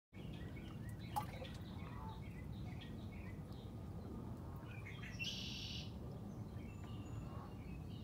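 Small birds chirping in short calls, with a sharp click about a second in and a dense buzzy trill about five seconds in, over a steady low rumble of outdoor background noise.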